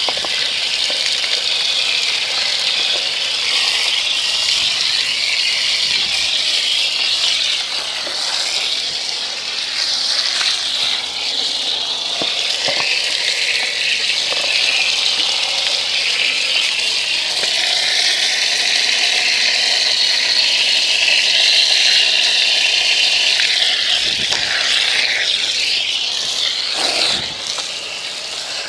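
Garden hose spray nozzle jetting water against a muddy dirt bike to knock off caked-on mud: a steady hissing spray that eases off a little near the end.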